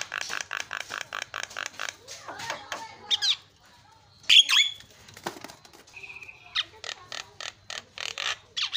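Javan myna singing: fast runs of harsh chattering notes, about eight a second, broken by a loud squawk about four seconds in and a short whistle a couple of seconds later, then another rapid run.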